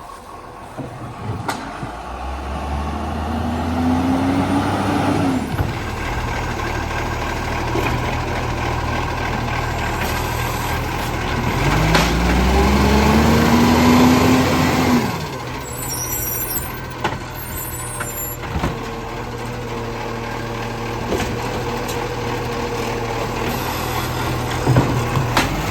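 Garbage truck's diesel engine revving up twice, each rise in pitch lasting a few seconds before it drops back, with a third rev starting near the end.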